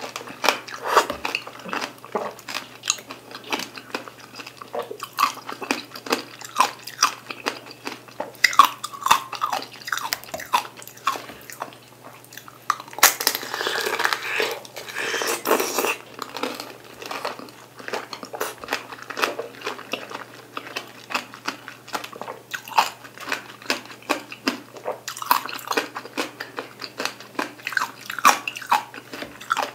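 Crunching and chewing of mandarin tanghulu, the hard sugar glaze cracking in many sharp crunches as the fruit is chewed. A big bite makes a louder, denser burst of crunching about halfway through.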